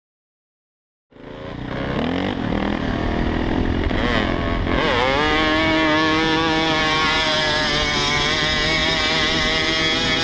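Dirt bike engine starting up about a second in, its revs rising and falling, then held at steady high revs under a rush of wind noise.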